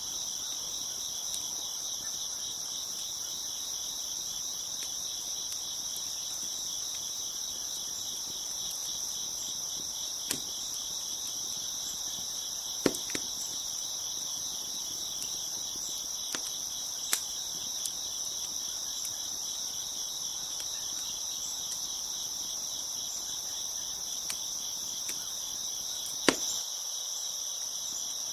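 A steady chorus of crickets chirping, with a handful of sharp pops and crackles from a wood fire. The loudest pops come about halfway through and near the end.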